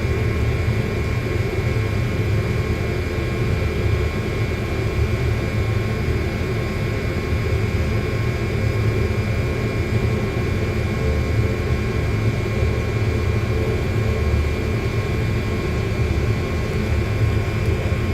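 A steady machine drone: a constant low rumble with a few faint unchanging hums above it, like a running engine or motor.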